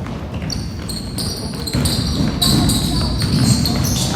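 Basketball game in a gym: a ball bouncing on the hardwood court amid players' and spectators' voices. The sound gets louder about two seconds in.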